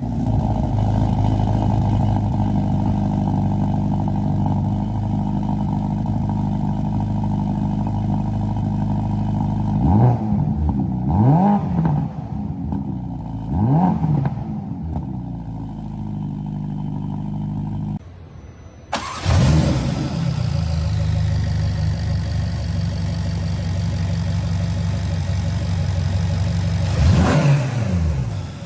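Ferrari Roma Spider's 3.9-litre twin-turbo V8 idling just after start-up, blipped three times in quick succession around the middle. The sound cuts out briefly about two-thirds in, then the engine flares up again, settles to idle and is blipped once more near the end.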